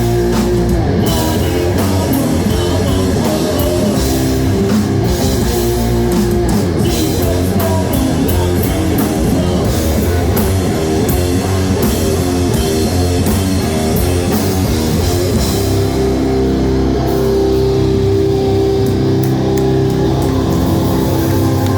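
Heavy rock band playing live: distorted electric guitars, bass and drum kit, loud throughout. About three-quarters of the way through, the cymbal crashes drop away, leaving sustained held guitar chords.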